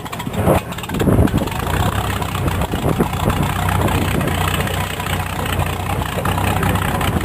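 Hawker Hurricane's Rolls-Royce Merlin V12 engine, just started: it fires unevenly for about the first second, then settles into a steady idle.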